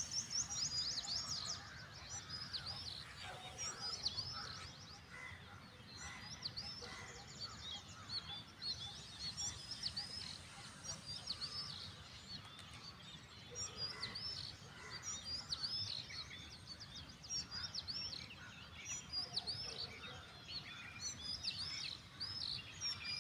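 Birds chirping, with many short high chirps and twittering notes repeated throughout over a low, steady background noise.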